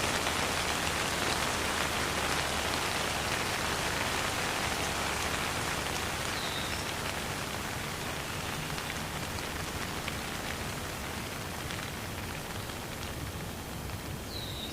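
Steady rain falling and pattering on surfaces, with no thunder, growing slightly quieter over the span.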